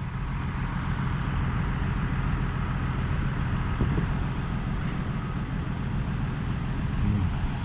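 Farm tractor's diesel engine running steadily, a low even hum.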